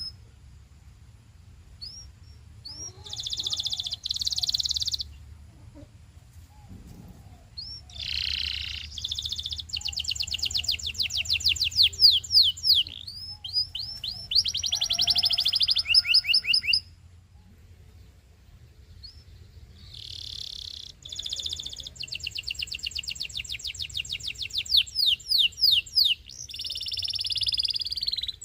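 Domestic canary singing: three long phrases of rapid repeated notes and trills, separated by short pauses.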